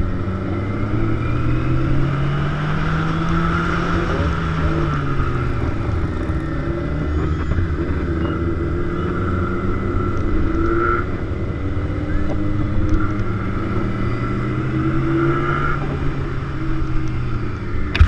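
Big motorcycle engine running on the move, its pitch rising and falling twice as the throttle opens and closes.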